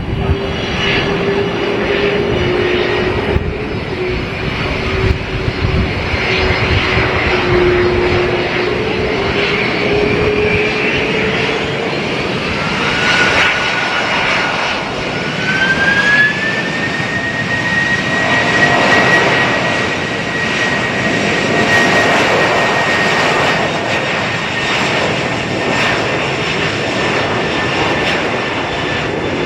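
Jet airliner's engines running steadily, a loud roar with a high whine that steps up in pitch about halfway through as the engines spool up.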